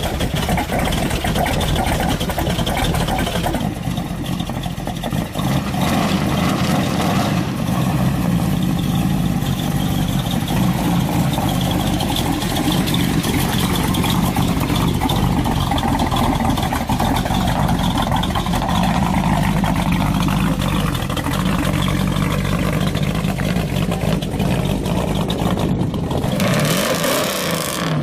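A muscle car's engine running loud and steady. Its note dips a few seconds in, and a short rush of noise comes near the end.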